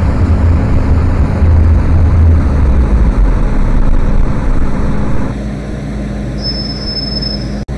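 Electric MTR M-Train noise: a loud low rumble that drops away about five seconds in, with a short high-pitched beep near the end.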